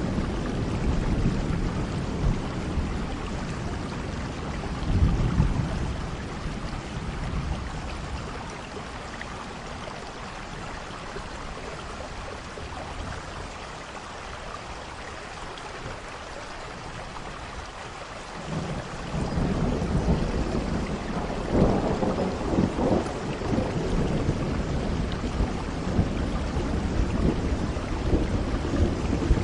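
Steady rain with rolling thunder. A low rumble dies away over the first several seconds, leaving the rain alone, then a new roll of thunder swells up about two-thirds of the way through and keeps rumbling to the end.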